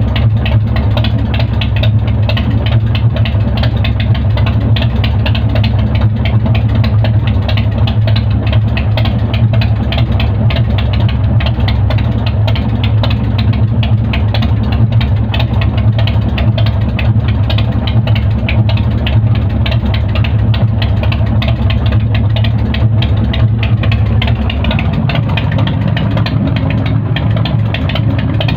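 BigDog motorcycle's V-twin engine idling steadily on the enricher during warm-up after a cold start, running on newly fitted BigDog tappets. The idle note shifts slightly near the end.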